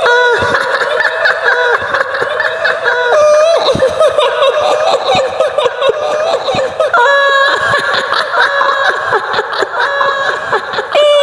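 Shrill, high-pitched female cackling laughter in long, broken runs, the laugh attributed to the kuntilanak ghost of Indonesian folklore.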